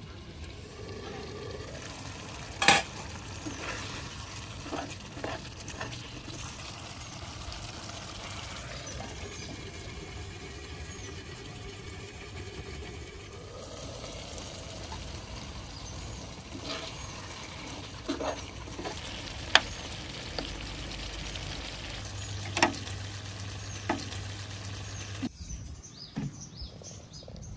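Buttermilk chicken sizzling as it fries in a pan, a steady hiss broken by a few sharp knocks, the loudest about three seconds in. The sizzling cuts off suddenly near the end.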